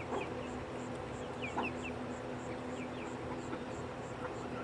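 A flock of chickens feeding and vocalising softly, with several short high chirps and peeps, the loudest about one and a half seconds in, over a steady low hum.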